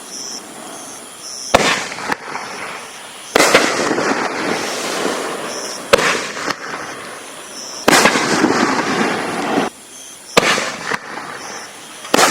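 A 4-inch 24-shot fireworks cake (Raccoon Mother of all Fireworks) firing, with a sharp bang about every two seconds and a few smaller bangs between. Each bang is followed by a couple of seconds of crackling.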